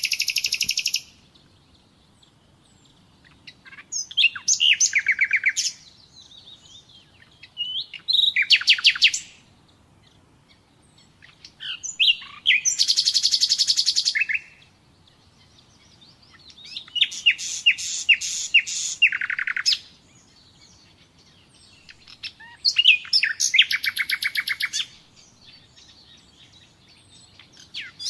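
Nightingale singing: bursts of song made of rapid repeated notes and trills, each lasting about two seconds, with pauses of a second or two between them, about one phrase every four seconds.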